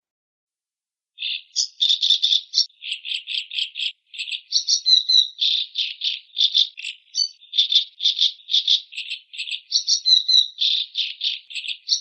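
Rapid rattling chatter of a bird, short harsh pulses about five or six a second, starting about a second in and running on without a break.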